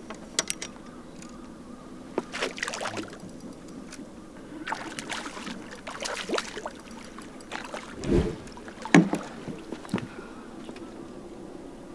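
Irregular splashes, rattles and sharp knocks of handling on a bass boat, with a heavy thump and another knock about two-thirds of the way through.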